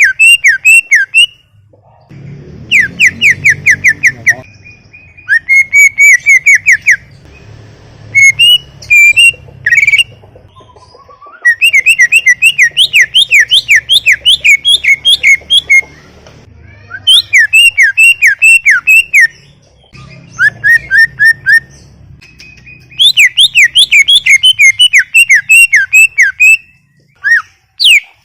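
Cucak ijo (greater green leafbird) singing loudly in phrases of rapid, sharp, down-slurred whistled notes, about five a second, each phrase one to four seconds long with short pauses between.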